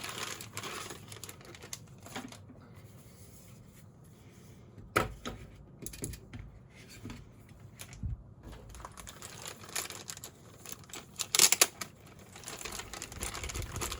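Keys of a ZSA Moonlander mechanical keyboard being pressed: scattered clicky keystrokes, one sharp click about five seconds in and a quick run of several near the end, with some handling noise in between.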